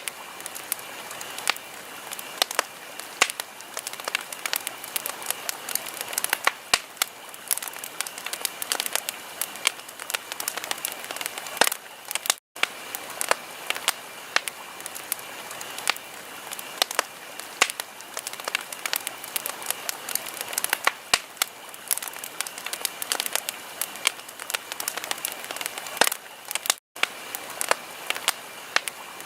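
Wood fire in a fireplace crackling, with frequent sharp pops and snaps over a soft steady hiss. The sound cuts out for a split second twice, about halfway through and near the end.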